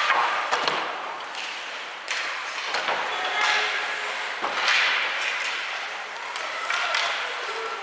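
Ice hockey play in an arena: skate blades scraping the ice in swelling rushes, with sharp clacks and thuds of sticks, puck and boards, and scattered voices echoing in the rink.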